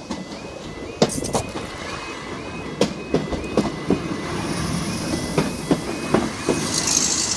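A level crossing's warning alarm sounds a short rising tone about three times a second while an electric passenger train runs over the crossing, its wheels clacking over the rail joints from about a second in. A high hiss builds near the end.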